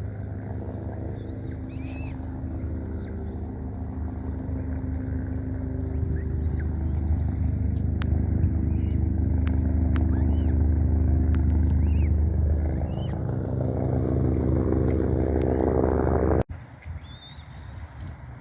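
A motor engine running steadily, growing louder through the middle and cutting off abruptly near the end, with short high bird chirps over it.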